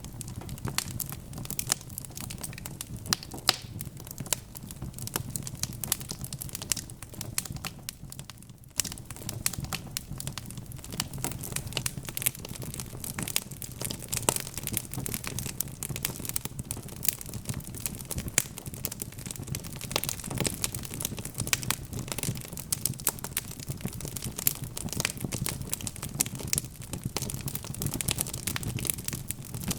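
Wood fire crackling, with many irregular sharp pops and snaps over a low steady rumble.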